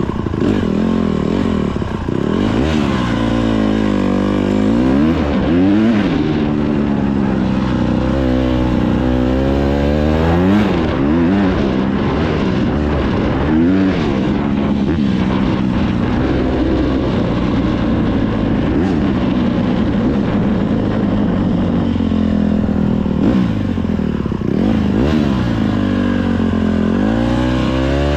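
Dirt bike engine revving hard as it is ridden, its pitch climbing and dropping again and again with throttle and gear changes.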